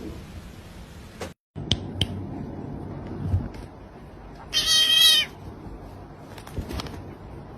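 A cat meowing once, a single loud call lasting under a second, about halfway through.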